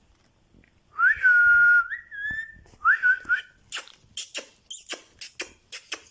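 Pet parrot whistling: one whistle that rises and then holds one pitch for nearly a second, then a shorter second whistle. A quick run of short sharp clicks follows.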